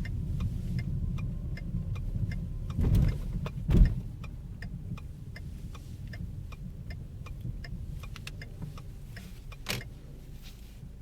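A 2010 Ford Focus's right rear wheel ticking in a steady rhythm over low road rumble; the owner traces the strange noise to the right rear tyre. A couple of thumps come about three seconds in, then the rumble drops off while the ticking carries on.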